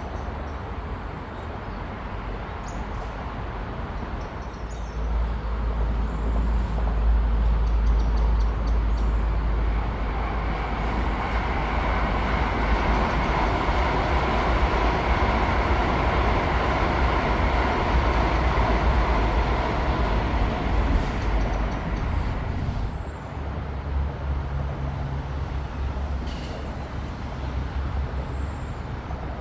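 High-speed train passing at speed: a broad rush of wheel and air noise that builds from about five seconds in, is loudest through the middle and dies away after about twenty-two seconds.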